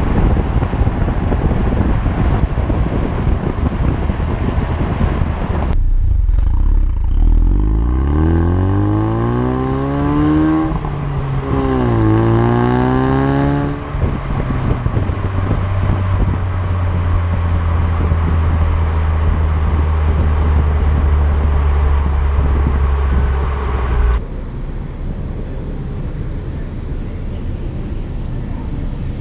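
2018 Ford Focus RS's turbocharged 2.3-litre four-cylinder on its stock exhaust, under wind and road noise. About eight seconds in, the engine note climbs under acceleration, drops at a gear change, and climbs again. It then settles to a steady drone while cruising, and the rushing noise eases near the end.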